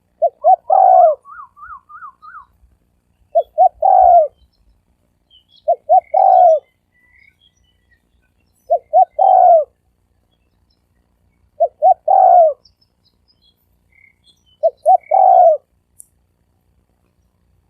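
Spotted dove cooing: six calls about every three seconds, each two short coos followed by a longer, falling note. Right after the first call comes a brief, quieter series of higher, wavering notes.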